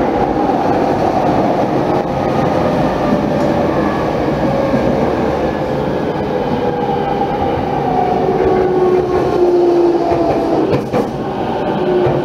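Electric commuter train heard from inside the car: steady rumble of wheels on rail and running noise. In the second half the motor whine glides down in pitch as the train slows.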